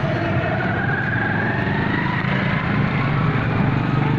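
Toyota 2NZ 1.3-litre inline-four engine running steadily at idle, heard from in the engine bay. A faint whine rises in pitch over the first couple of seconds.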